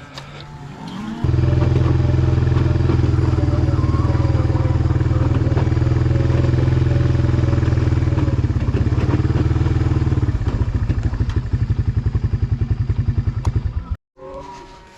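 An engine running loud and close, starting suddenly about a second in with a steady low drone. About ten seconds in it turns into a fast, even pulsing, then cuts off abruptly near the end.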